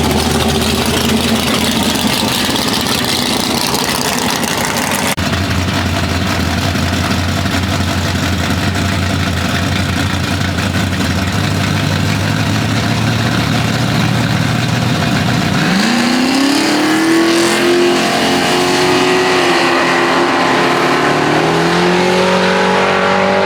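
Car engine running loudly, then about two-thirds of the way through its pitch climbs quickly and keeps rising as the car revs and accelerates.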